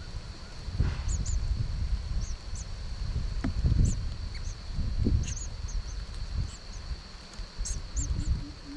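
A steady, high, unbroken insect buzz with scattered short, high bird chirps, over a loud, uneven low rumble of wind on the microphone. Near the end a quiet run of short, low, evenly spaced notes begins.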